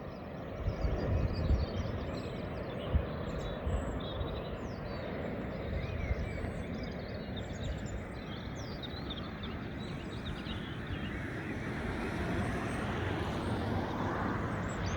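Small birds chirping and singing over a steady rush of sea surf and a low rumble of wind on the microphone. Near the end the noise swells as a car approaches.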